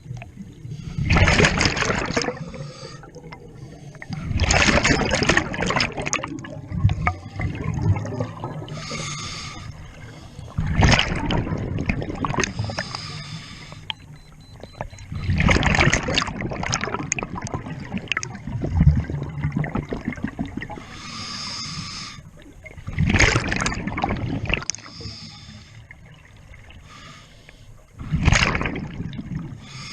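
Water splashing and sloshing in loud surges every few seconds.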